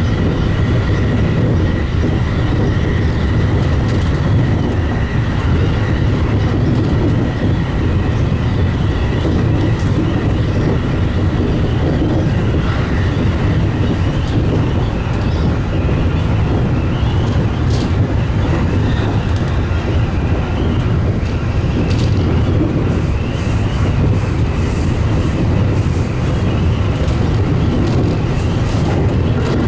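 Steady running noise of a JR Takasaki Line local electric train under way: a low rumble of wheels on rail with occasional clicks from the track.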